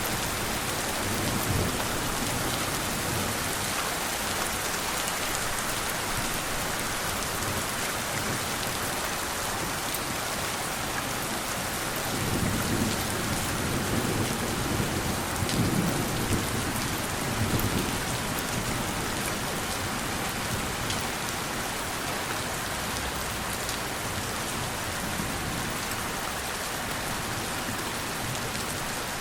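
Steady rain falling, with a low roll of thunder about midway that rumbles in several swells for around six seconds.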